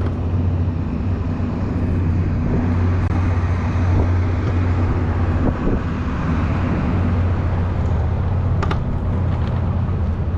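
Steady rush and low hum of riding an electric scooter, with wind on the microphone.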